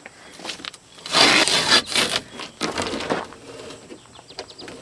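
Rustling and crumpling of material being balled up by hand. It is loudest for about a second, starting about a second in, and then trails off into scattered scratchy rustles.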